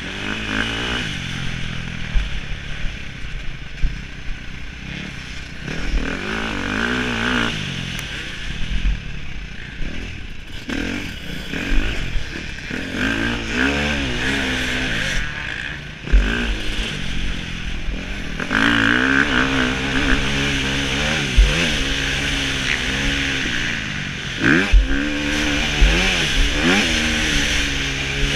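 Motocross bike engine revving hard and dropping back over and over as the rider accelerates and shifts. It is heard from a helmet-mounted camera, with a steady rush of wind and scattered low thumps.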